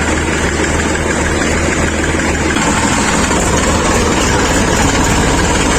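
Tractor diesel engine idling steadily, with a slight change in its low beat about two and a half seconds in.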